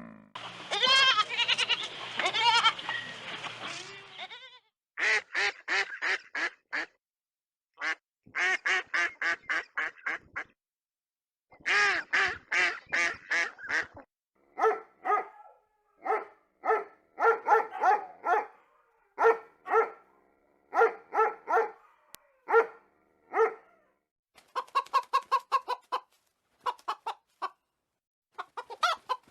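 Domestic geese and ducks calling. A dense chattering of calls fills the first few seconds. It is followed by bursts of quick calls in runs, then separate honks a second or so apart, and more quick bursts near the end.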